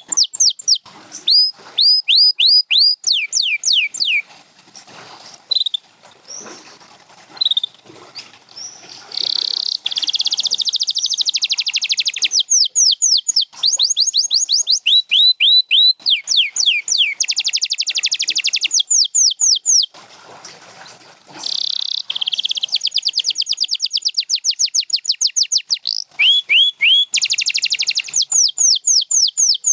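A domestic canary singing. Its song runs as rapid series of repeated, downward-sliding whistled notes alternating with fast, buzzy trills, with quieter pauses a few seconds in and again about twenty seconds in.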